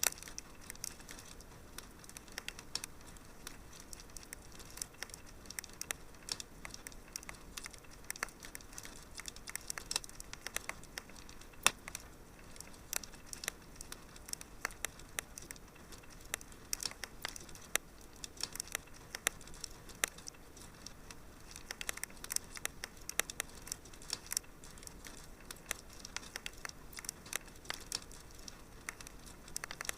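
Wood fire crackling in a fireplace: a soft steady hiss under many irregular sharp pops and snaps, one louder pop near the middle.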